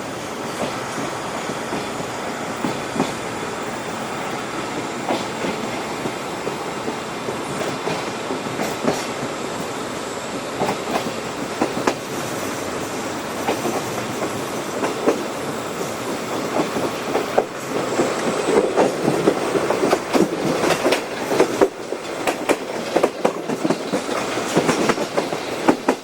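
Ride inside a locomotive-hauled passenger coach under way: a steady rolling rumble with the clickety-clack of wheels over rail joints. It grows louder and busier about two-thirds of the way through.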